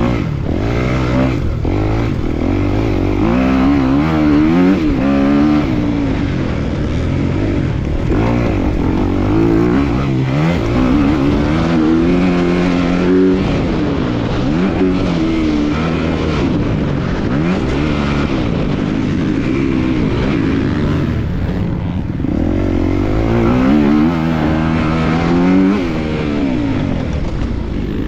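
250cc motocross bike engine revving hard and easing off over and over, its pitch climbing and dropping as the throttle is worked around the track.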